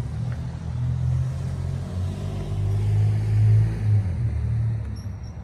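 A motor vehicle engine running with a low steady drone, swelling louder a little past the middle and easing off near the end.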